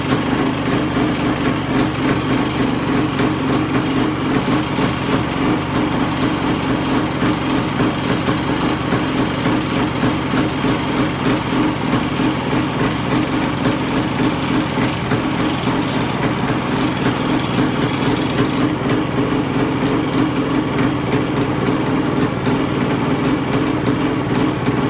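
Two-stroke single-cylinder engine of a 1976 Honda MT250 Elsinore enduro motorcycle idling steadily, with no revving.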